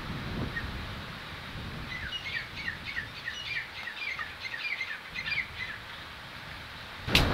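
A small bird singing a run of quick, high chirps, starting about two seconds in and lasting a few seconds, over a faint steady background hiss. A sharp click comes near the end.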